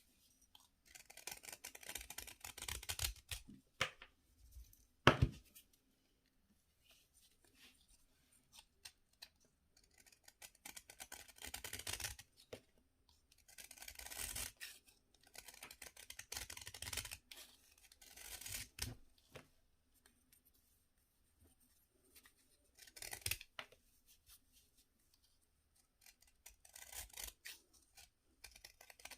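Bath fizzers being cut, scraped and crushed: dry, crumbly crunching and scraping in bursts of one to three seconds with quiet pauses between, and one sharp knock about five seconds in.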